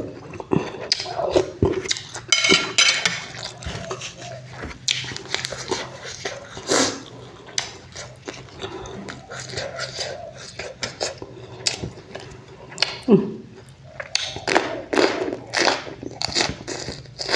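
Eating at a table: cutlery clinking and scraping against a dish in irregular short clicks, with mouth sounds of eating and a faint steady hum underneath.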